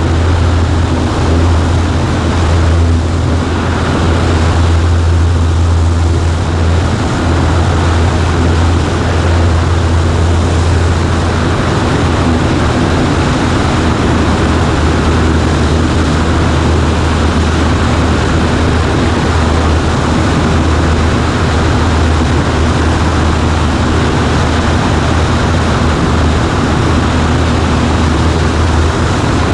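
Cessna 140A's single piston engine and propeller droning steadily in flight, a loud, unchanging low hum over broad air and wind noise.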